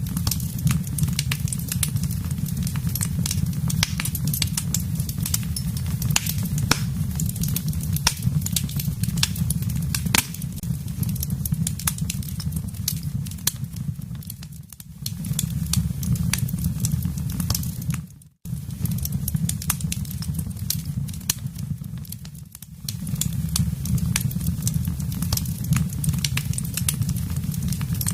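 Wood fire burning in a fireplace: a steady low rumble of flames with frequent sharp crackles and pops. The sound briefly drops away twice and cuts almost out for a moment about two-thirds of the way through.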